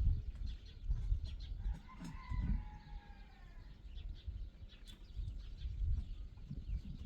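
A chicken calling once, a drawn-out call of about two seconds that slides slightly down in pitch, over a low rumble.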